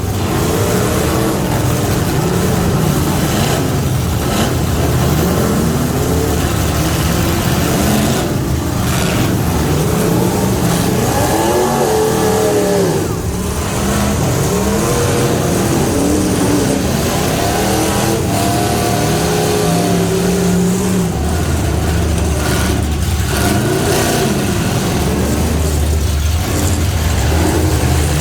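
Half-ton pickup truck engine revving hard under load, its pitch climbing and falling again and again in repeated surges, over a loud, rough wash of engine noise.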